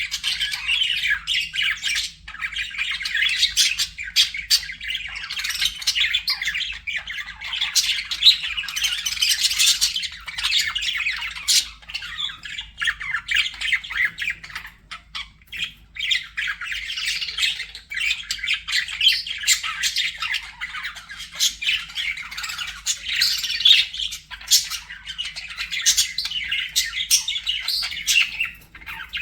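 Budgerigars chirping and chattering continuously in a dense stream of short, high-pitched calls, easing off briefly a little before halfway.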